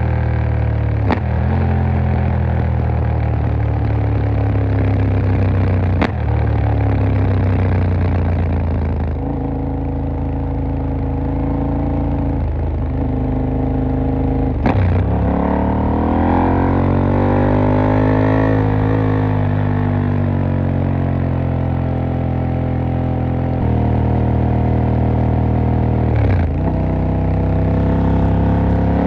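KTM 890 Duke R's parallel-twin engine running under way, its note rising and falling with the throttle and climbing steadily through the middle. Four sharp clicks are spread through, each where the engine note steps.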